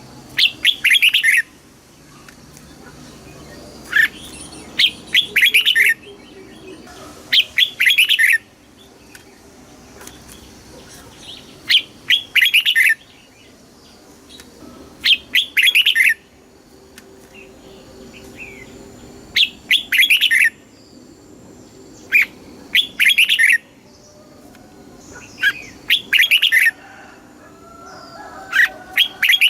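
Red-whiskered bulbul singing: short, loud, warbling phrases of about a second each, repeated nine times, one every three to four seconds.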